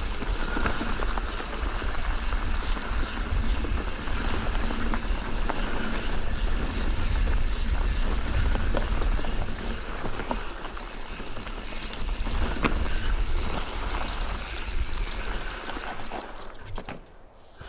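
Wind buffeting the microphone over a low rumble and scattered clicks and rattles, the ride noise of a mountain bike moving over rough trail. It falls away sharply near the end.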